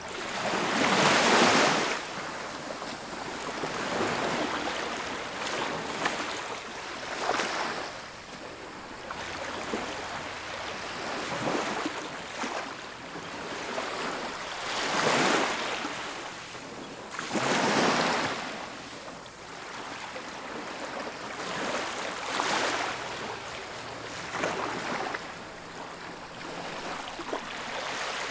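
Ocean waves breaking on a beach, a steady wash of surf with a bigger wave crashing every few seconds, the strongest about a second in and again around the middle.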